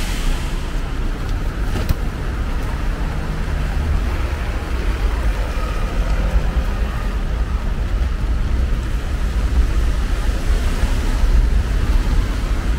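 Heavy rain hissing steadily on a city street, with car traffic running on the wet road under it. Two sharp taps come in the first two seconds.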